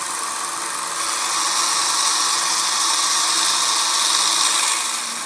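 Belt sander with a 40-grit belt grinding a steel knife blade to reshape its broken tip: a steady rasping hiss over the motor's running, growing louder about a second in as the blade is pressed to the belt and easing off near the end.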